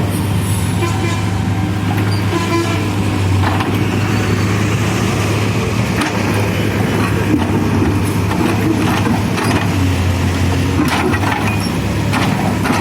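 CASE backhoe loader's diesel engine running at a steady pitch, with scattered short knocks and rattles over it.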